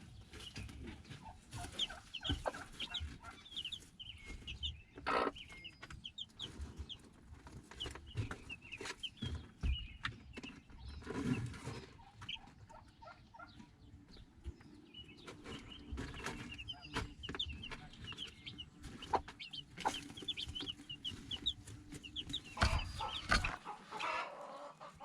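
A flock of chickens clucking, with many short high calls throughout, and scattered knocks and rustles among them.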